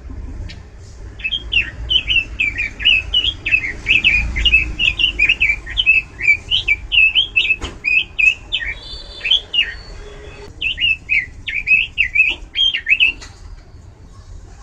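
Pekin robin (red-billed leiothrix) singing loudly: a fast, varied run of warbled notes that breaks off briefly about ten seconds in, then carries on for a few seconds more.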